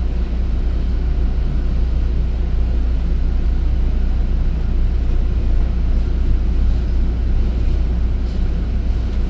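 Steady low rumble and running noise of a commuter train in motion, heard from inside the passenger coach.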